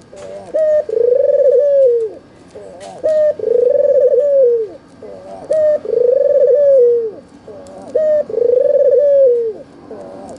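White (albino, red-eyed) ringneck dove cooing over and over: each phrase is a short note followed by a long rolling coo that drops at the end, four times with a fifth beginning at the close.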